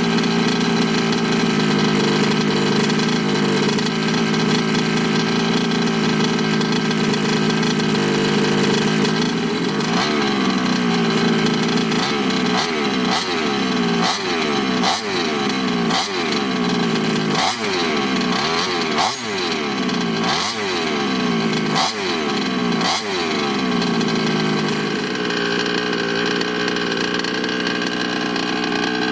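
A 34cc two-stroke engine in a 1/5-scale RC car running steadily on its first break-in run. Partway through it is revved in about ten quick throttle blips, one every second or so, then settles back to a steady run.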